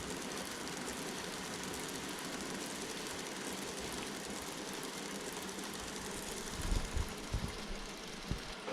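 N-gauge model train running on track: a steady rolling hiss, with a few soft low thumps near the end.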